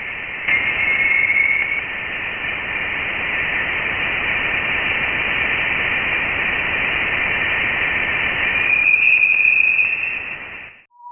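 Radio static: a steady hiss that cuts off sharply above the upper mid range, with a faint thin tone showing through about a second in and again near the end. It stops suddenly just before the end.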